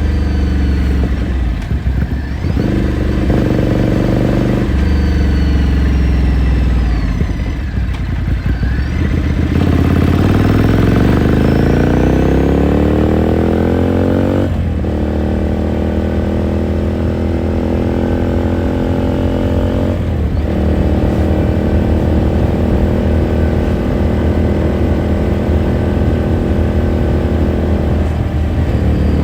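2018 Ducati Scrambler Sixty2's 399 cc air-cooled L-twin engine heard from onboard while riding. The engine note climbs steadily under acceleration about ten seconds in, breaks for gear changes around fourteen and twenty seconds in, and then holds steady at cruising speed.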